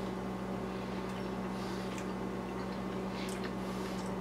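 Steady low electrical hum in a quiet kitchen, with a few faint soft clicks from a mouth chewing a bite of baked potato.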